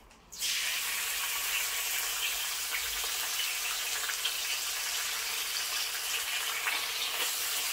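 Chopped salted mustard greens hitting hot oil in a wok and sizzling: a sudden loud hiss starts about half a second in and carries on steadily, with light crackles.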